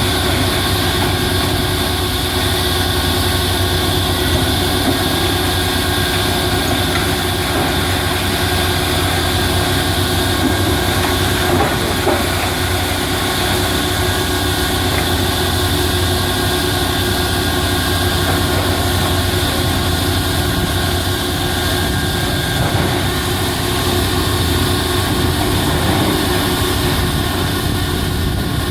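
Heavy demolition machinery's diesel engine running steadily, a constant low hum with a steady whine above it.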